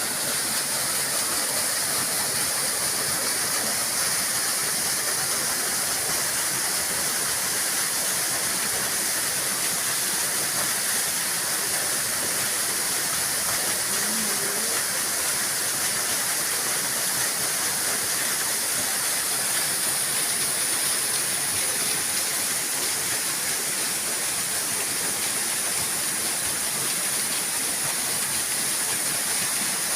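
Waterfall rushing: a steady, even sound of falling water, strongest in the high range.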